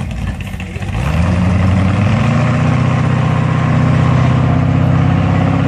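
A 790 hp 454 big-block V8 in an '87 Chevy truck accelerating: about a second in it gets louder and the engine note climbs, then holds steady and loud under load.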